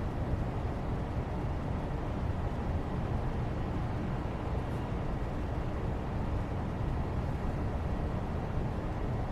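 Steady, even background noise, deep and rumbly, with no distinct events in it.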